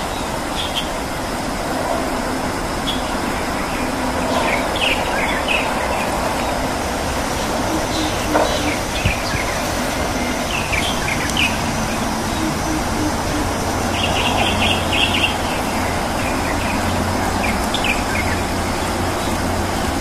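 Short, high bird chirps scattered through, with a quick run of them about two-thirds of the way in, over a steady rushing background noise.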